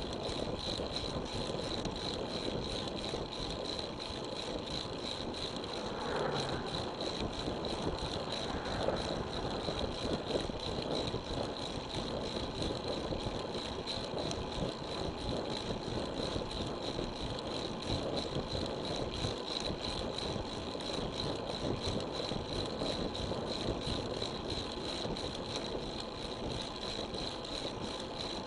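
Steady wind and road noise on an action camera's microphone while riding a road bike, with a faint steady high whine.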